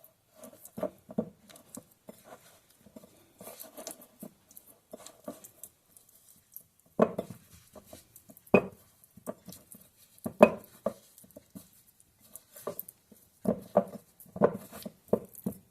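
Hands mixing and massaging flour-coated chicken pieces in a bowl: soft irregular handling noises with clinks and knocks against the dish, a few louder knocks in the second half.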